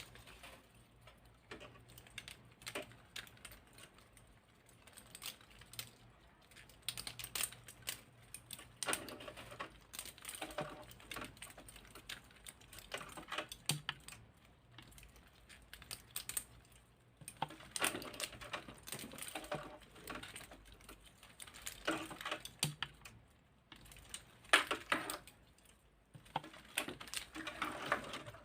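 Segments of a 3D-printed articulated plastic centipede clicking and rattling against each other as it is handled, in irregular flurries of small clicks with short pauses between.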